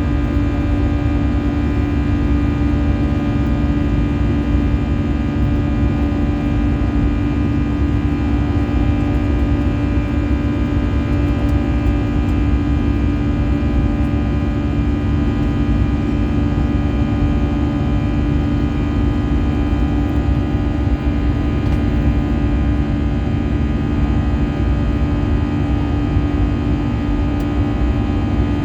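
Airliner cabin noise inside an Airbus A320-214: its jet engines and airflow make a steady, loud drone, with a strong low hum and many steady higher tones stacked above it.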